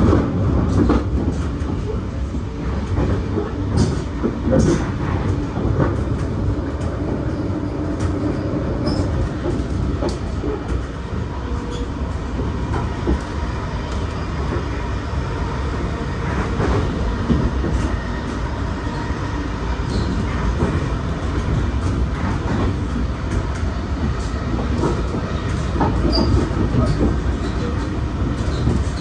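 V set electric intercity train running along the line: a steady rumble of wheels on rail, with scattered clicks from the wheels running over rail joints.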